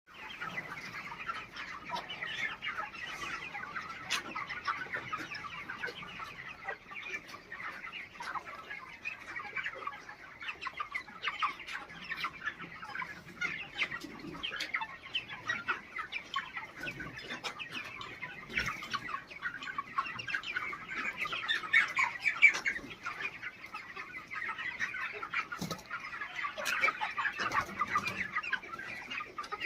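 A flock of chickens clucking and calling all at once in a constant dense chatter, with scattered sharp clicks throughout.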